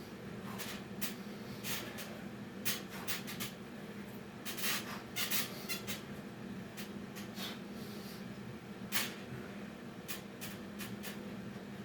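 Irregular short scuffs and rustles of a person doing Navy SEAL burpees, over a steady low hum.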